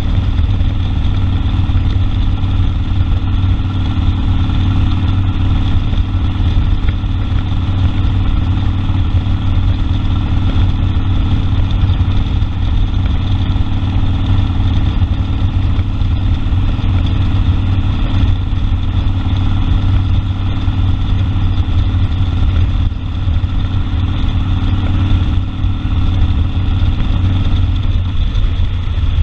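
Harley-Davidson Sportster 1200 Custom's air-cooled V-twin running at a steady speed, with a slight change in its note near the end.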